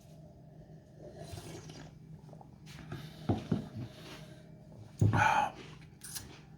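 A person sipping and tasting beer: a soft slurp, small mouth clicks and swallowing, then a short loud breath out about five seconds in.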